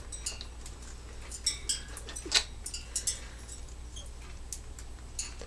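Scattered light clicks and taps at irregular intervals as an African grey parrot moves about on its perch, over a steady low hum.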